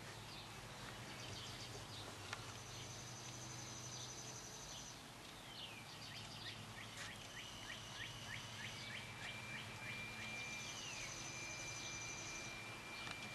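Faint bird chirps and calls, with high trills, over a low steady hum.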